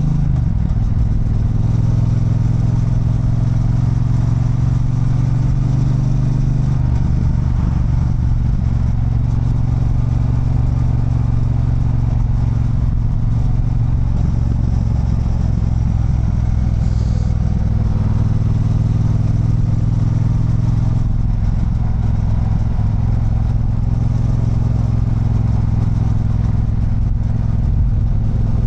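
Triumph Bonneville Bobber's 1200 cc parallel-twin engine running under way, heard from the rider's position. Its note shifts in pitch about seven seconds in and changes again around the middle and past two-thirds of the way through.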